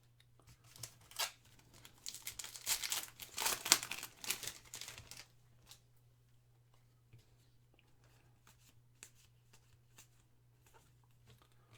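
A foil trading-card pack torn open, its wrapper crinkling for about three seconds, then faint scattered clicks of cards being handled.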